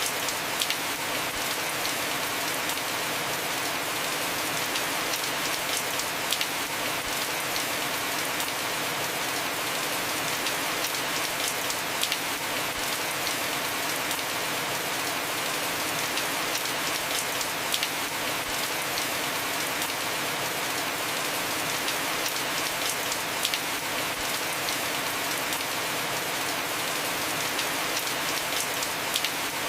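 Heavy rain falling on a house roof: a steady, even hiss with many sharp drop ticks scattered through it.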